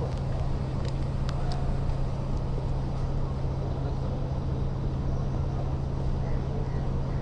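Kawasaki ZX-10R inline-four sportbike engine with its stock exhaust, running steadily at an even engine speed while riding.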